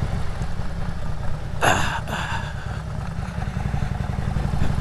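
Motorcycle engine running steadily with a fine, even pulse while riding on city streets. A brief higher-pitched sound cuts in about halfway through.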